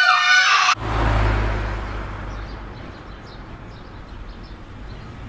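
Street noise with a car going by: a low rumble comes in suddenly, is loudest at first, and fades over the next couple of seconds into steady outdoor traffic hiss.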